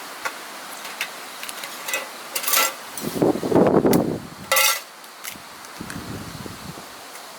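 A few sharp knocks and metallic clinks, with a louder rustling thud about three seconds in, over a steady hiss.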